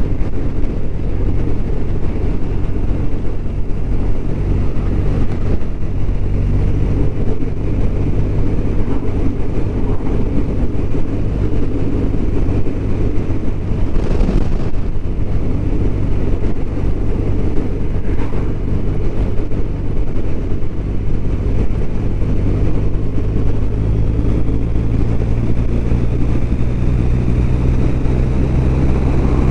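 BMW R1200RT's flat-twin boxer engine running steadily at cruising speed, with road and wind noise, heard from the moving motorcycle. About halfway through there is a short swell of rushing noise.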